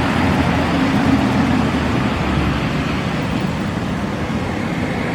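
Classic car engines running steadily, with a low engine hum over road and traffic noise.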